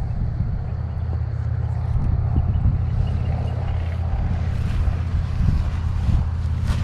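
Strong wind buffeting the camera microphone: a steady, fluctuating low rumble.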